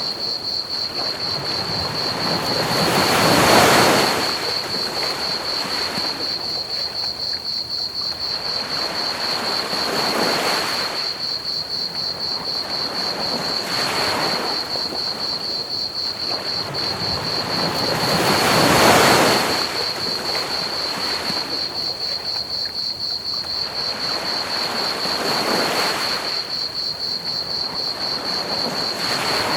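Ocean waves washing ashore in slow swells every few seconds, the two biggest breakers coming near the start and just past the middle. Crickets keep up a continuous high, pulsing chirp, and a steady hiss of pink noise sits underneath.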